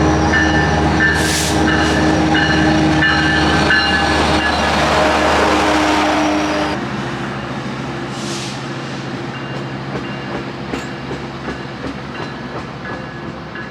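A train running on the rails. It starts with a loud steady hum and several held whining tones, which cut to a quieter steady rumble about seven seconds in.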